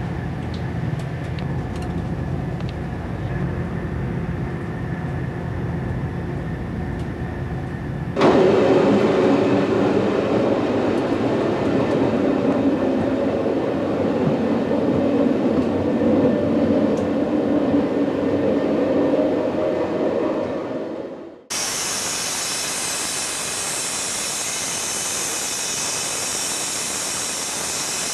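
Rail vehicle running noise in several clips cut together. A low rumble with steady tones gives way abruptly, about eight seconds in, to a louder running roar. This cuts off sharply near the end and is replaced by a steady high-pitched hiss.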